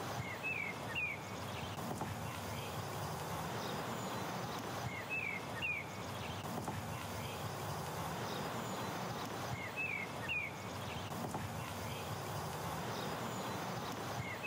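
Steady outdoor background hiss with a bird calling a short two-note phrase three times, about five seconds apart, and starting again at the very end.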